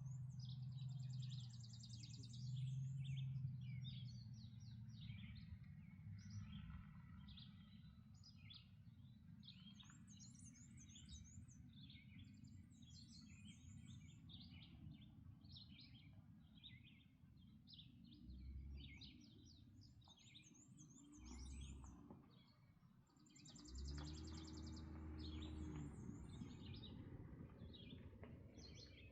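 Several songbirds singing in a dawn chorus: many short chirps and repeated high trilled phrases, over a faint steady low rumble. Near the end a low hum swells for a few seconds.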